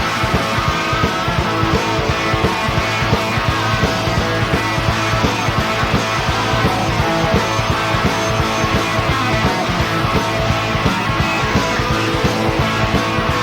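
Live rock band playing an instrumental passage on electric guitars, bass guitar and drums, with a steady driving beat.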